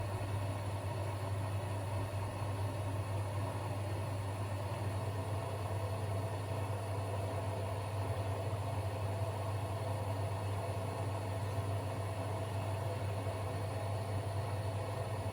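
Domestic washing machines and tumble dryers running together, giving a steady motor hum with a strong low drone that does not change.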